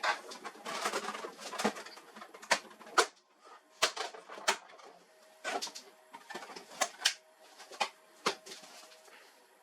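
Irregular clicks, knocks and short scrapes of hard plastic and metal printer parts being handled and worked on, over a faint steady hum.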